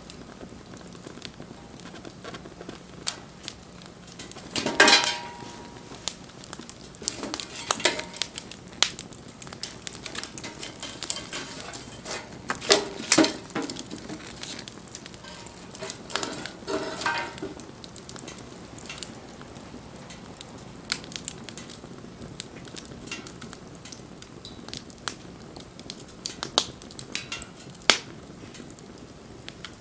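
Wood fire crackling, with sharp pops and clicks throughout. It is broken by a few louder clattering knocks about five, thirteen and seventeen seconds in, one with a brief ring.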